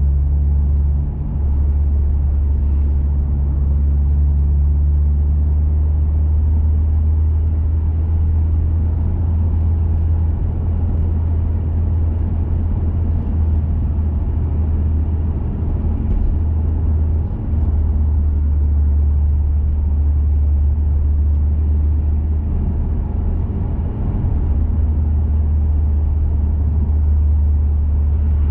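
2021 Mazda 3 Turbo hatchback under way, its turbocharged 2.5-litre four-cylinder breathing through a CorkSport 80 mm cat-back exhaust: a steady deep drone at an even engine speed, over road and tyre noise.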